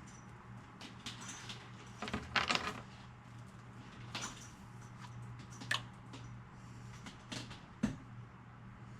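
Handling noise from hands working with small parts and wires: scattered clicks, small knocks and rustling, loudest about two and a half seconds in, over a steady low hum.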